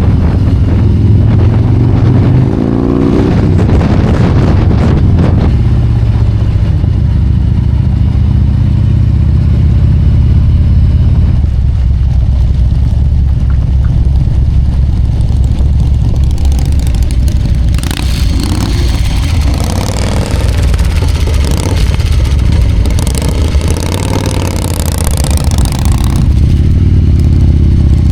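Motorcycle engine running steadily, with its pitch rising as it revs up about three seconds in. A rushing noise joins it for several seconds in the second half.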